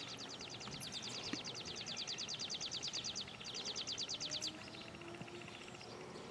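A small bird's rapid trill of short high notes, about a dozen a second, breaking off about three seconds in, then resuming briefly before stopping, over faint outdoor background.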